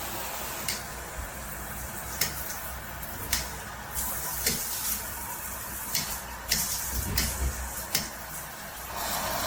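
Water spraying steadily from a shower head, a constant hiss, with several sharp clicks scattered through it.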